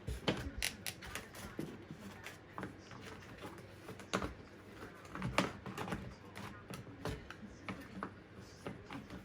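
Irregular clicks, knocks and rattles of a plastic box fan's grille, housing and blade being handled and taken apart for a blade swap, with the sharpest knocks about four and five and a half seconds in.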